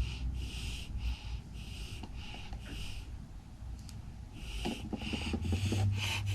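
Wasabi being stirred and mashed into soy sauce in a small dish, a run of scraping strokes about two a second with a short pause midway.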